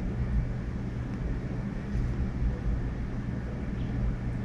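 A steady low drone with a rumble underneath, like room ventilation or machinery hum, with no distinct events.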